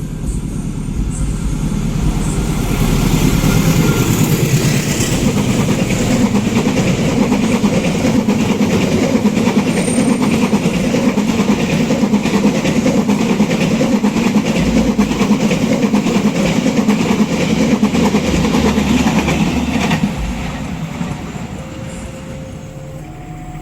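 Passenger train running past close by, its steel wheels clattering on the rails. The noise swells about two seconds in, holds, and dies away after about twenty seconds.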